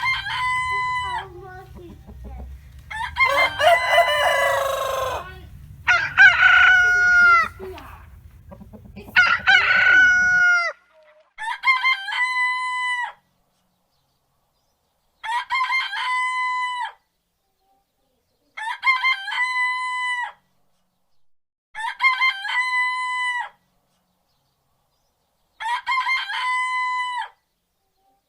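Rooster crowing again and again, about nine crows. The first few, over a low hum, differ from one another; then, from about halfway, one identical crow repeats every three to four seconds with silence between.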